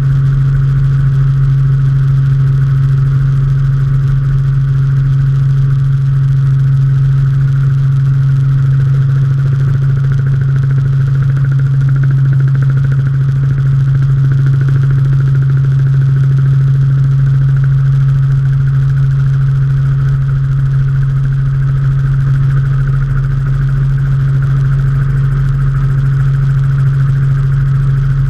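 Robinson R44 helicopter in flight, its six-cylinder piston engine and rotors heard from the cabin as a loud, steady drone with a strong low hum.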